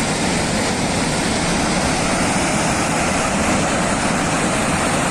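A torrent of floodwater rushing with a steady, loud roar.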